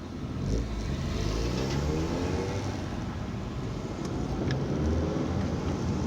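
A car engine accelerating, its pitch rising as it revs up, over the steady rumble of road and engine noise in traffic.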